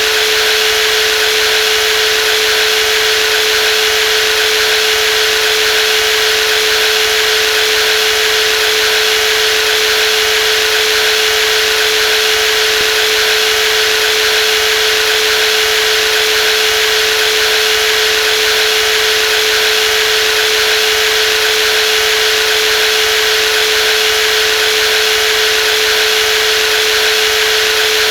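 Brushless jigsaw running continuously at a steady speed, a constant high motor whine with a strong steady hum underneath.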